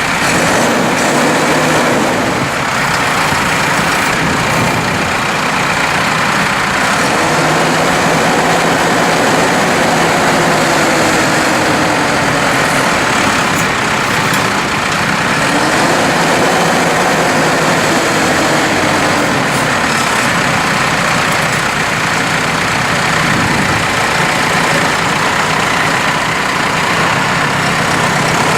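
The 2014 New Holland T4.95 tractor's four-cylinder turbo diesel is running, with its pitch slowly rising and falling twice.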